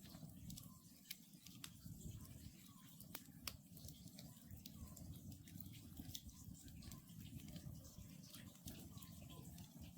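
Wood campfire crackling, with scattered sharp pops over a low steady rustle of burning. Faintly behind it an Oriental scops owl calls, a short note repeating about every one and a half seconds.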